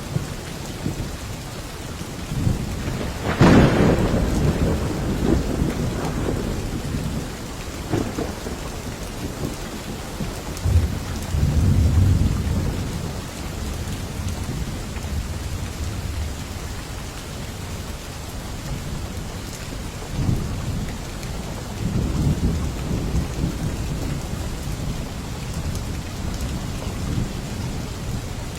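Steady rain with thunder: a sharp thunderclap about three seconds in, then low rumbles of thunder near the middle and again later.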